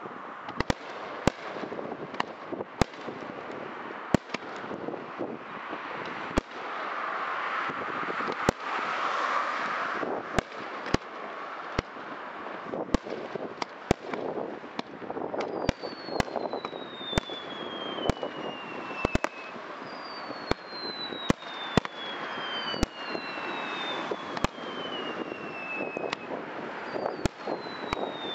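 Fireworks display: aerial shells bursting with sharp bangs, more than one a second, over a continuous crackle that swells about a third of the way in. In the second half, several long falling whistles overlap the bangs.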